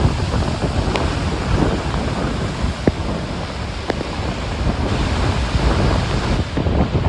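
Heavy sea surf breaking and churning in a gale, with strong wind buffeting the microphone. A few short sharp ticks cut through the rush.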